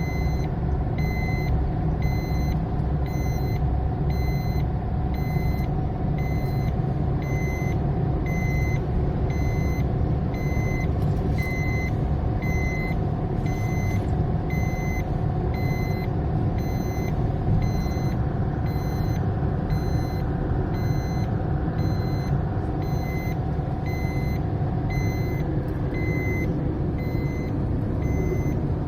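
Maruti Suzuki Swift diesel running on the move, heard from inside the cabin as a steady engine and road rumble. A high dashboard warning chime beeps over it about once a second the whole time.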